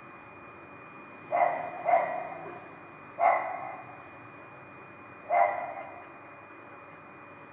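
A dog barking: four single barks, two close together about a second and a half in, one near three seconds and one a little after five seconds.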